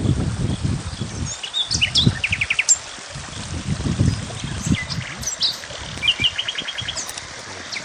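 Small songbirds chirping, with two quick trills of rapidly repeated notes, one about two seconds in and one about six seconds in. Irregular low rumbling sounds underneath.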